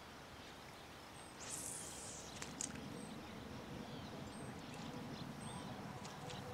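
Faint pond-side ambience with a small bird chirping several times in short, high notes, and a brief soft rush of noise about a second and a half in.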